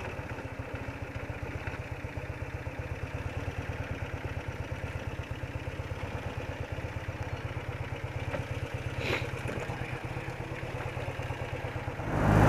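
BMW R80RT's air-cooled flat-twin engine idling steadily, with an even pulse. Just before the end a sudden, much louder stretch of engine noise cuts in.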